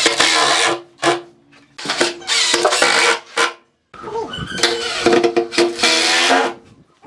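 A power tool working wood in three bursts of a second or two each, broken by short pauses. Each burst is a loud rasping noise carrying a steady motor whine.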